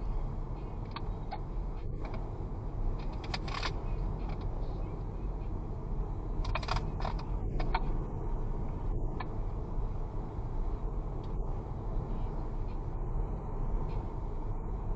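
A vehicle driving steadily, its engine and road noise a constant low rumble with wind noise. A few brief sharp clicks or rattles come through in the first nine seconds or so.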